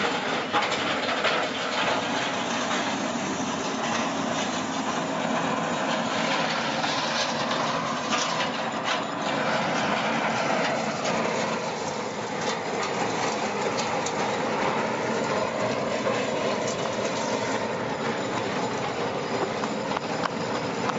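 Continuous loud mechanical clatter and rumble, with scattered sharp clicks and knocks throughout.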